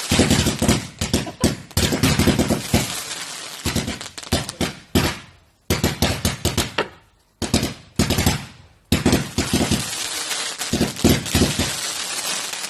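Fireworks going off in rapid volleys of sharp bangs and crackles. They come in several bursts of a second or two, with short breaks between them.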